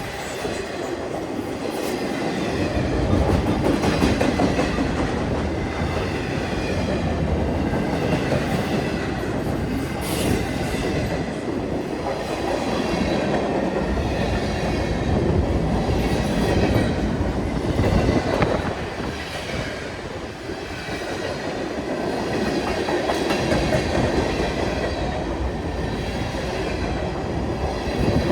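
CN freight train rolling past at about 32 mph: a steady rumble of steel wheels on rail, with clacking at rail joints and a faint wheel squeal.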